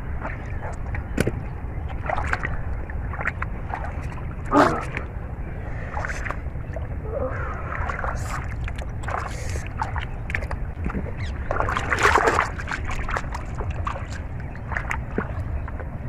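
Shallow paddy-field water sloshing and splashing as hands work through it, with many short splashes and two louder ones, about a third of the way in and three-quarters of the way in, over a steady low rumble.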